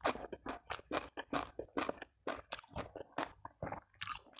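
Close-miked chewing of crunchy food, most likely a fresh cucumber slice, with quick crunches several times a second.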